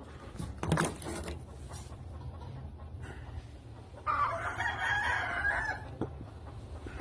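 A rooster crowing once, about four seconds in, for almost two seconds. A short knock comes just under a second in.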